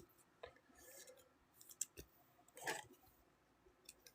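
Near silence with a few faint clicks and a brief soft rustle past halfway: trading cards being handled and shuffled.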